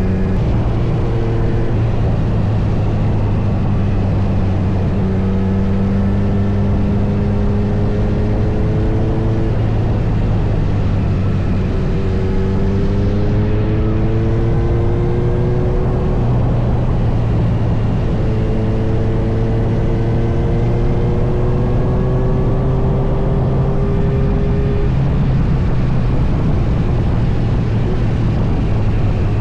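Kawasaki Z900's inline-four engine running under way, rising in pitch three times as it pulls through the gears and dropping back between pulls, over a steady rush of road and wind noise.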